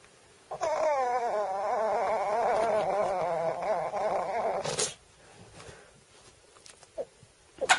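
A pet animal giving one long, wavering howl of about four seconds, its pitch trembling up and down, followed by a brief sharp sound near the end.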